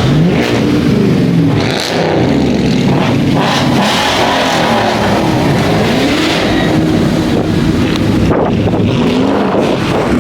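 Car engines revving hard, the pitch climbing and falling again and again, with revs overlapping one another.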